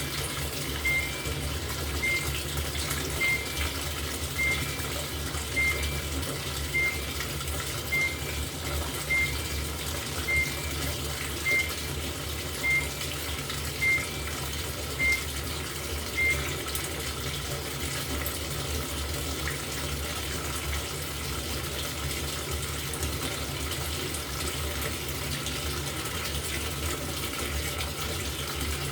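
LG top-loading washing machine filling its tub with water, a steady rush over a low hum. A short two-note electronic beep from the machine repeats about every 1.2 seconds, about fourteen times, then stops about 16 seconds in.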